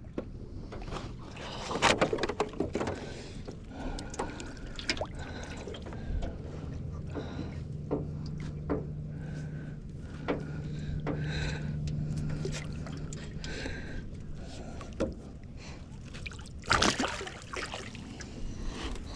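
Knocks and clatter in a small aluminum boat on the water. A cluster of sharp knocks comes about two seconds in and another near the end, and a steady low hum runs for several seconds in the middle.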